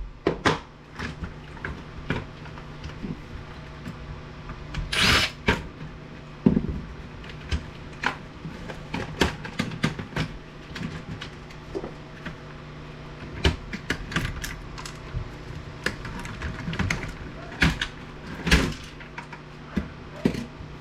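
Hands-on disassembly of an APC battery backup unit: scattered clicks, knocks and rattles of plastic and metal parts and hand tools. There is one longer, louder burst of noise about five seconds in, over a steady low hum.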